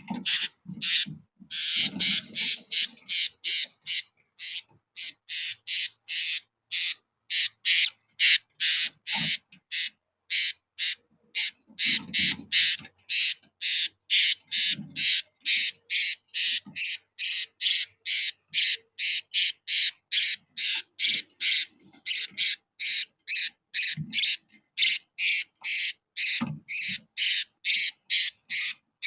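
Blue-crowned hanging parrots (serindit) calling: short, shrill, high-pitched notes repeated about two to three a second without a break, with a few soft low rustles.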